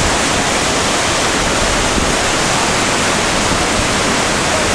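Floodwater rushing in a swollen, surging creek: a steady, loud noise of running water.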